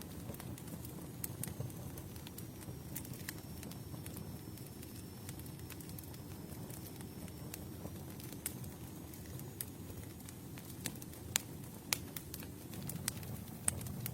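Campfire crackling: irregular sharp pops and snaps over a low, steady rumble of burning wood, with a few louder pops near the end.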